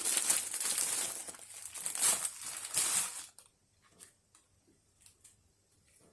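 Crinkling and tearing as mushrooms are unwrapped and pulled apart by hand, stopping suddenly about three seconds in; after that only a few faint light clicks.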